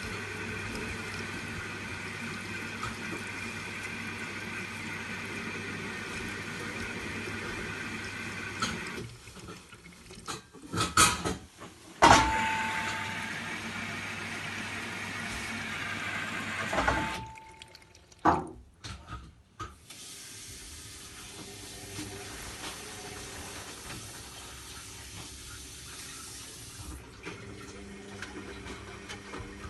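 Zanussi Lindo 100 washing machine filling with water at the start of its cottons 40 wash, a steady rushing of water into the drum. In the middle come several abrupt breaks and sharp knocks.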